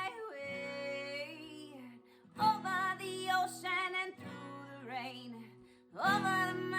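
A woman singing a folk melody in short phrases over acoustic guitar.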